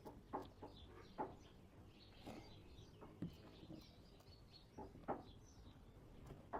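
Near silence with faint bird calls and a few soft, short clicks spaced roughly a second apart.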